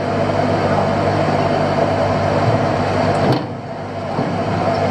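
Fishing boat's engine running steadily under way, with a short knock a little past halfway and a brief drop in level for about a second after it.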